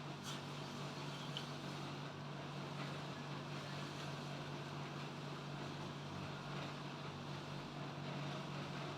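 A steady low hum under a wash of background noise, with a faint click shortly after the start and another about a second and a half in.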